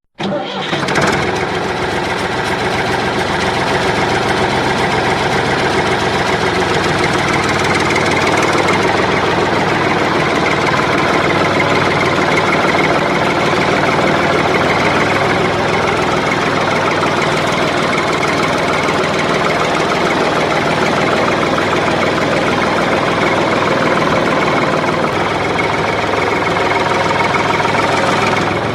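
A toy JCB tractor running, giving a steady, rattling engine-like sound that starts abruptly and holds at an even level.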